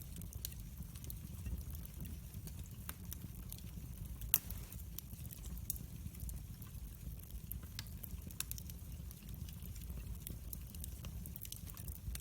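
Wood fire in a fireplace crackling, with a steady low rumble of flames and irregular sharp pops, the loudest about four seconds in.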